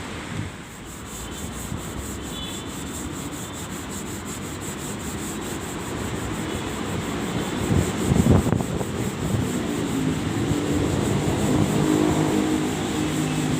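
Steady rubbing or sanding on a car body panel, in fast, even strokes. A loud thump comes about eight seconds in, and a low, steady hum grows in near the end.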